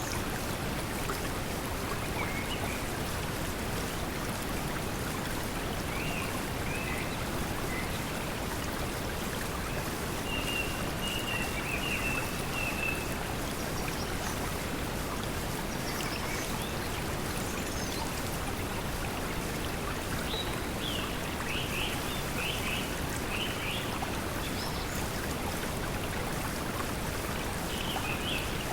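Steady pink noise blended with flowing water, with short high chirps of forest birds now and then, in clusters around the middle and near the end.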